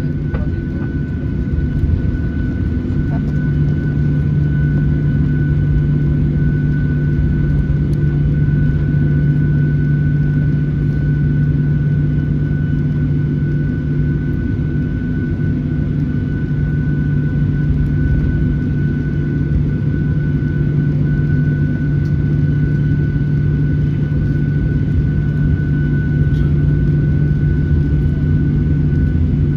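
Boeing 737-800's CFM56-7B jet engines heard from inside the passenger cabin: a steady low hum with a thin steady high tone above it, the engines at an even low setting rather than spooling up for the takeoff roll.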